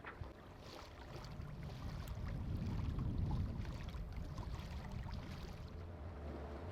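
Low wind-and-water rumble aboard a sailboat under sail, swelling for a few seconds in the middle, with a few faint clicks.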